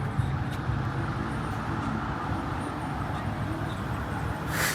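Steady low rumble of road vehicles, with one short burst of hiss near the end.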